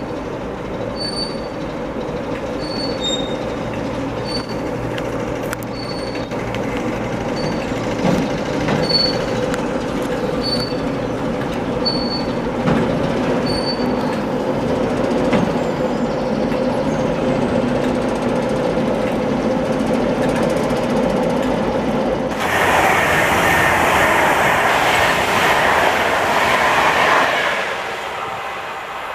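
A diesel-hauled train, a Class 69 locomotive with a Class 08, moving through the station, with a steady engine hum, wheel noise and short high squeaks about once a second. Near the end there is about five seconds of loud rushing noise that cuts off sharply.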